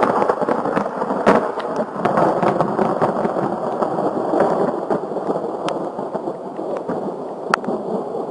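Thunder breaking suddenly close by and rolling on, slowly fading over several seconds, with sharp crackles scattered through the rumble.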